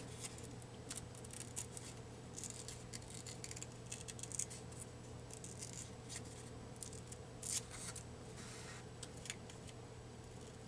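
Scissors cutting paper in short, irregular snips, over a steady low hum.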